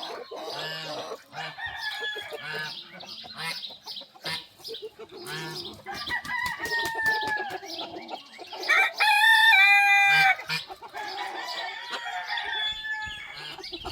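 Chickens clucking and calling, with a rooster crowing loudly about nine seconds in, one long call held for about a second and a half.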